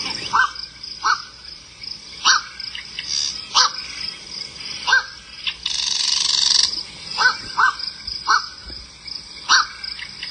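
Black-crowned night heron calling: a series of about ten short calls, roughly one a second, with one longer, rougher call near the middle.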